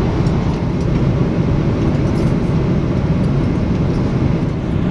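Steady low rumble of cabin noise inside a Boeing 777-300ER in cruise flight: engine and airflow noise, even and unchanging.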